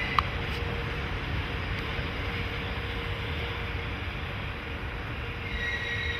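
Freight train rolling slowly over yard track: a steady rumble with a constant hum, one sharp click just after the start, and high wheel squeal setting in again near the end.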